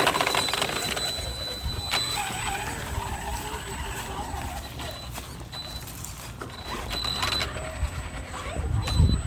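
A 3S electric RC 4x4 truck driving: a motor whine rises and falls with the throttle over the rumble of the drivetrain and tyres, with a thin high steady whine coming and going. It is loudest in a burst of throttle just before the end.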